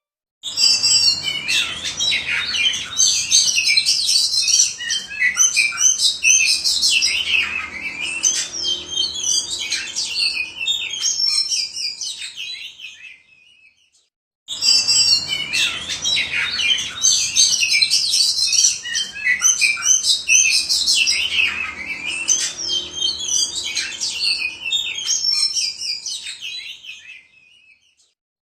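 Oriental magpie-robin (kacer) singing a loud, rapid, varied song of whistles and chirps. The song breaks off briefly about halfway and then the same run of phrases plays again.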